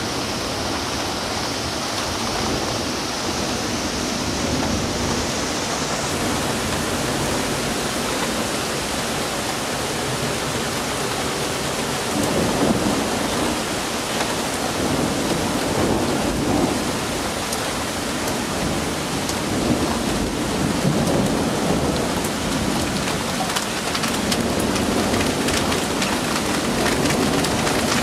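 Heavy thunderstorm rain pouring steadily, with louder rumbling surges from about halfway through and sharp ticks of drops striking near the end.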